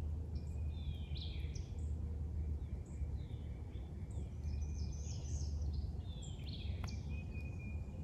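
Birds chirping and calling over a steady low outdoor rumble, with a single faint click about seven seconds in.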